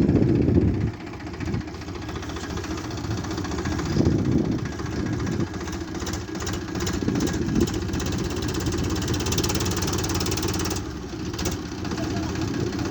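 Tractor diesel engine running steadily, with a brief louder surge about four seconds in.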